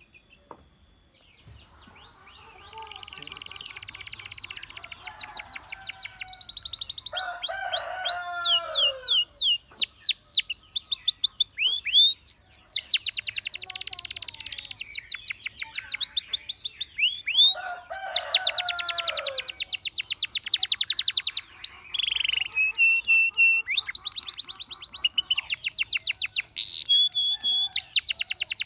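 Canary song: long rolling trills of rapidly repeated notes alternating with series of falling whistled sweeps, beginning after a brief near-silent gap.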